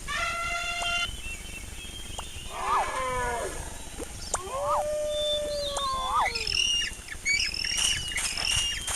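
A series of different animal calls: short pitched cries, some rising then falling, one long arched call about halfway through, and high short calls with a patter of quick clicks near the end.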